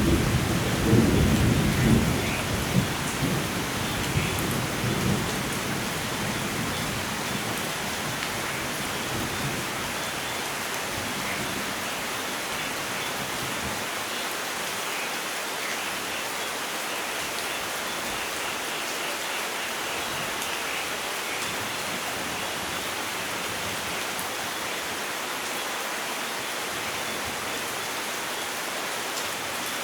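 Steady rain falling, with a low thunder rumble over the first few seconds that dies away.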